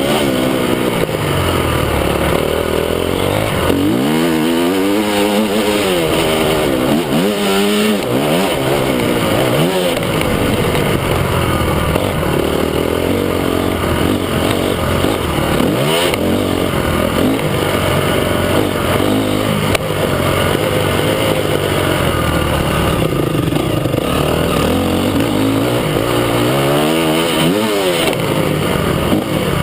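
Several motocross bikes running on a track, their engines revving up and falling back again and again as riders accelerate and shift, with more than one bike often heard at once.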